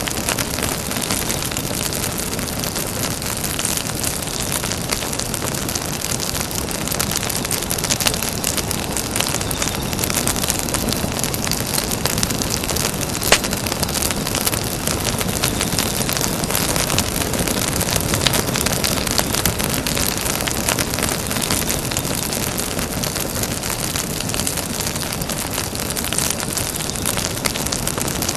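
Campfire crackling: a dense patter of small crackles and pops over a steady hiss, with one louder pop near the middle.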